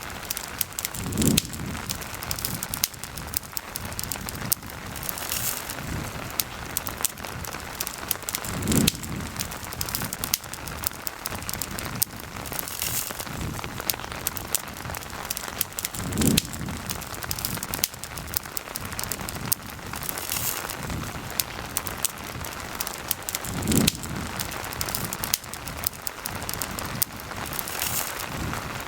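Steady rain falling, mixed with a campfire crackling. A short low thud recurs about every seven and a half seconds.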